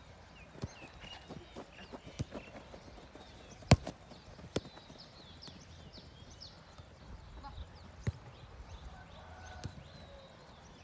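A football being kicked and trapped during a dribbling drill: scattered sharp knocks at uneven intervals, the loudest about four seconds in.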